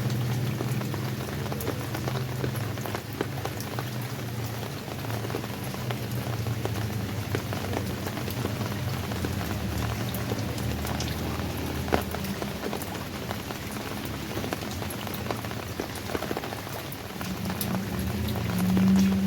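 Rain falling, with many separate drops ticking on surfaces over a steady wash of rain. A low steady hum runs underneath and swells to a louder tone near the end.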